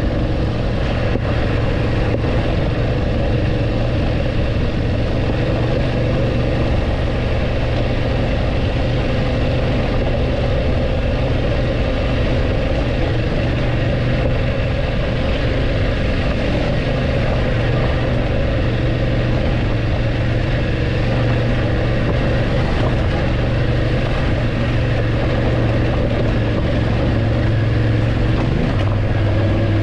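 BMW F850GS motorcycle's parallel-twin engine running at a steady, even pitch.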